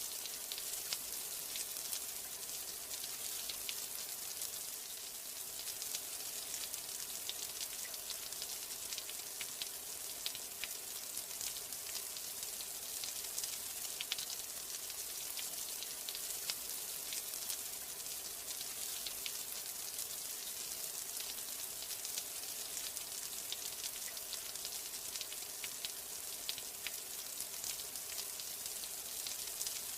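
Steady rain: a dense, even hiss with many sharp individual drop ticks scattered through it.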